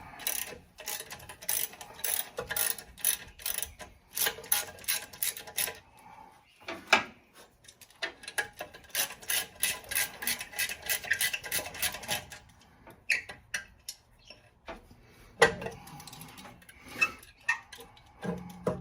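Hand ratchet clicking in two long runs as bolts are turned out of the front of a Ford 302 V8 engine, followed by a few metal clinks of tools and parts near the end.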